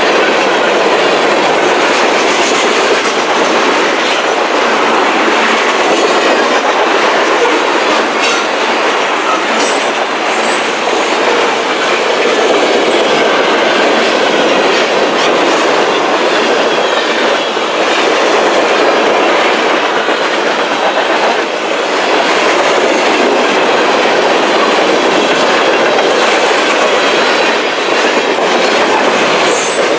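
A freight train's cars rolling past, with steady, loud noise and clatter of steel wheels on the rails.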